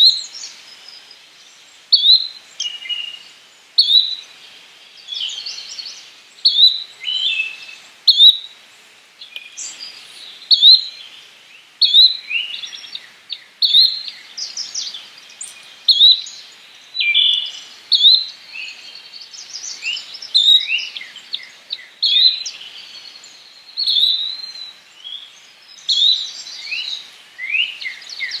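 Yellow-bellied flycatcher calling: a short, sharp note repeated about every two seconds, with other bird chirps and falling notes in between.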